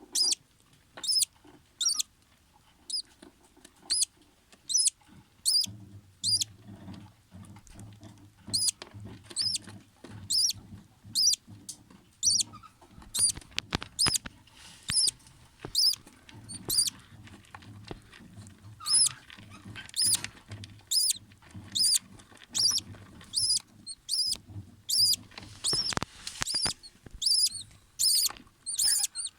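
Budgerigar chicks peeping, short high-pitched squeaks repeated about once or twice a second. A low pulsing hum runs underneath from about six seconds in.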